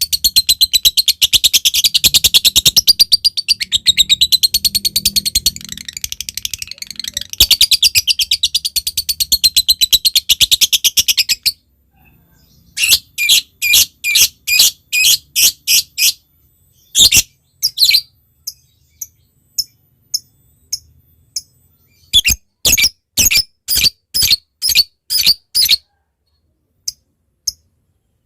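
Lovebird giving a long, rapid, unbroken chattering trill (the 'ngekek') for about eleven seconds. It then breaks off into separate sharp, high chirps, delivered in quick runs with short pauses between them.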